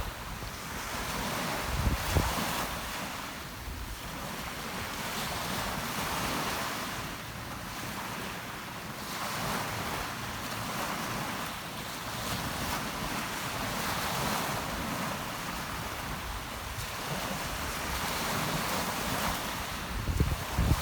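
Rough sea surf washing in during rain, the waves swelling and fading every few seconds. Wind buffets the microphone with a few low thumps about two seconds in and again near the end.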